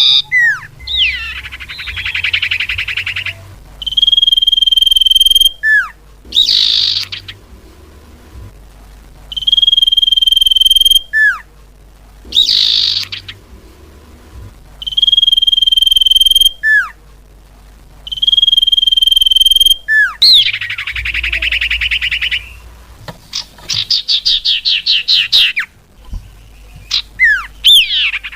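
Common iora (cipoh) lure calls: level whistles each held about a second and a half, each followed by a quick downward-swooping note, repeating in a regular pattern. Rapid buzzy trills come at the start and again near the end.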